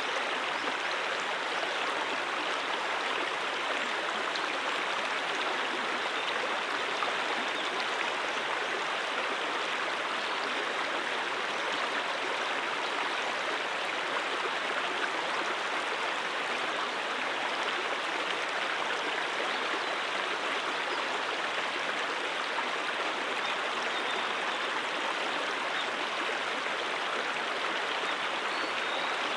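Mountain stream flowing over rocks: a steady, even rush of running water, brightest in the middle and upper range, with no changes.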